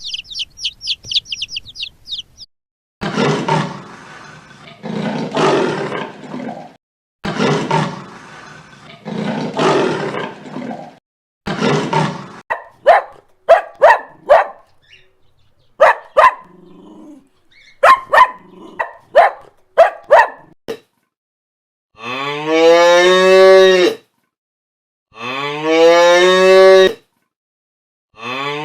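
A run of animal calls: a quick series of high chirps, then several long, rough, noisy calls, then a string of short, sharp calls. Near the end a cow moos three times, each moo long, rising and then holding steady.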